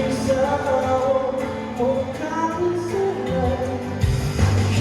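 A song performed live, with a singer's voice carrying the melody over instrumental accompaniment. A heavy low bass comes in near the end.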